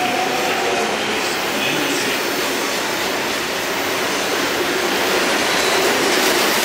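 SuperVia commuter train running: a steady, loud noise of wheels on rails and the moving car, with no breaks or distinct clanks.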